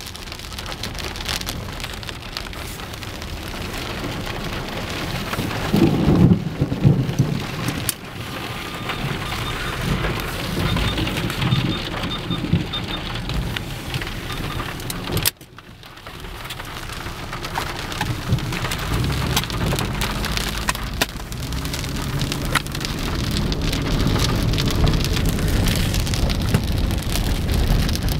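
Moderate to heavy rain falling steadily in a storm, with a loud low rumble of thunder about six seconds in and more rumbling later. The sound dips sharply for a moment about halfway through.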